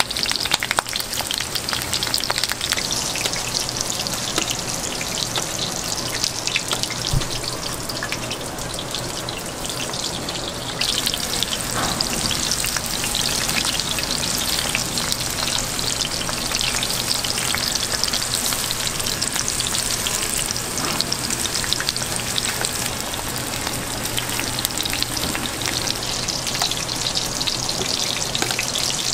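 Dumplings frying in shallow oil on a flat griddle: a steady, dense sizzle and crackle, a little stronger from about ten seconds in.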